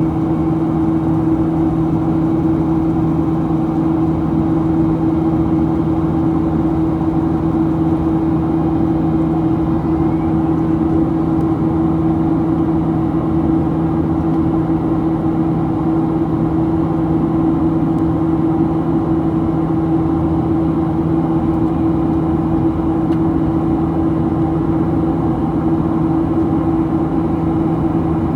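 Steady cabin noise inside a Boeing 737-800 airliner: an even drone of engine and airflow with a constant low hum, unchanging throughout.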